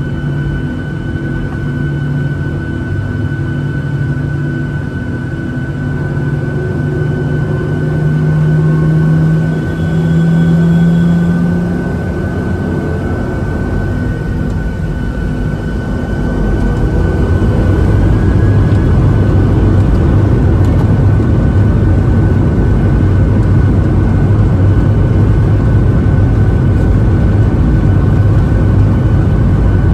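Boeing 737-700 jet engines heard from inside the cabin, running with a steady whine over a low hum. About halfway through the sound grows louder into a deep, dense rumble that holds steady, as engine power comes up.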